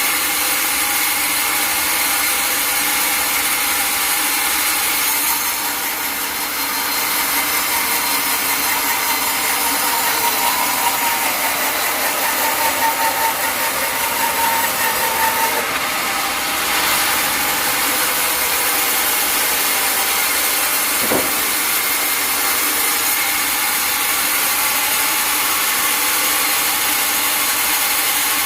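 Powered sawmill saw running and cutting through a log, a steady, loud hiss of blade in wood with a wavering whine partway through and a single sharp knock near the end.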